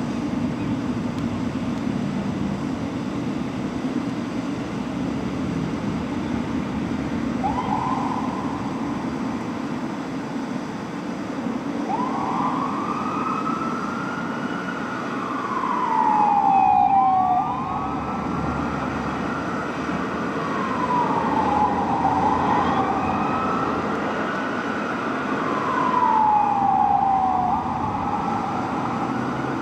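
Fire engine sirens sounding on a response: after a steady traffic and engine rumble, a siren chirps briefly about seven seconds in, then from about twelve seconds a slow wail rises and falls over and over, with a second siren's wail overlapping it. The sirens swell loudest twice, about halfway through and again near the end.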